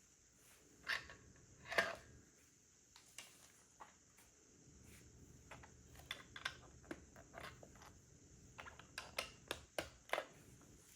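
Plastic Lego bricks clicking and tapping as pieces are handled and pressed together: irregular faint clicks, with two louder ones early and quick runs of clicks about six and nine seconds in.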